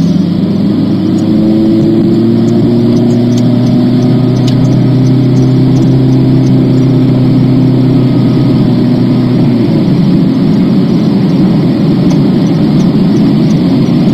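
Car cabin noise while accelerating onto a highway: a steady rush of road and tyre noise under engine tones that climb slowly and then drop off about nine and a half seconds in, as the transmission shifts up.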